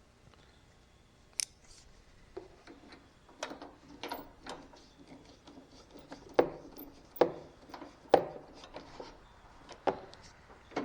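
Washers and other small metal parts clinking and knocking as they are handled and test-fitted, a string of sharp clinks that starts sparse and grows busier and louder after the first few seconds.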